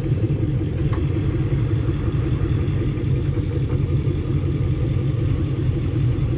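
Vehicle engine running steadily at low revs, a continuous low rumble.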